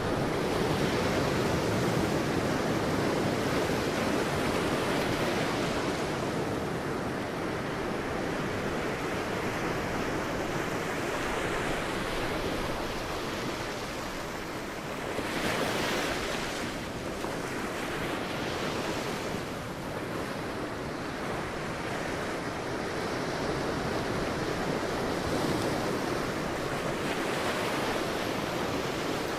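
Sea waves breaking on a beach, a continuous wash of surf that swells and recedes, with a brighter hissing break a little past halfway.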